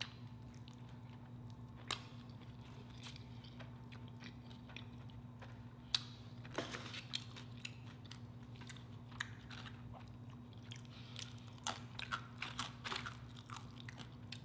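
Close-miked biting and chewing of a soft taco, with scattered sharp mouth clicks. A faint steady low hum runs underneath.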